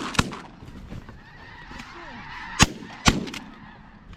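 Shotgun shots over a steady din of snow geese calling: one shot right at the start, then two more about half a second apart near the three-second mark, each with a short echo.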